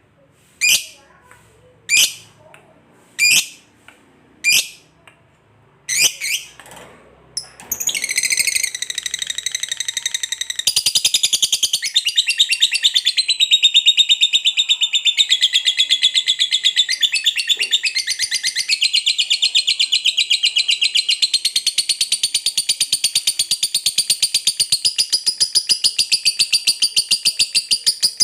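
Lovebird giving single sharp high calls about once every second and a bit, then from about eight seconds in breaking into a long, unbroken rapid chatter, the 'ngekek panjang' (long trill) prized in fighter lovebirds, that runs on for some twenty seconds.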